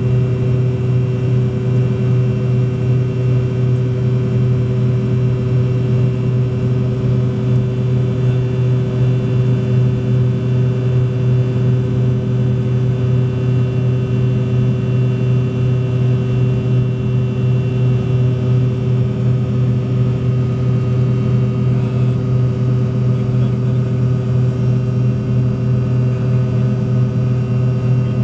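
Fokker 100 jet airliner's rear-mounted Rolls-Royce Tay turbofans running with a steady, unchanging drone: a strong low hum with several steady whining tones above it.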